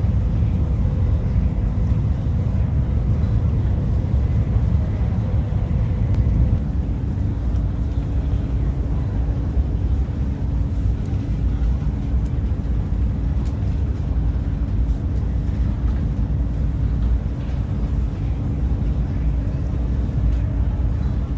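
Cabin noise of the Whoosh high-speed train running at speed: a steady low rumble, with a faint steady hum joining about six seconds in.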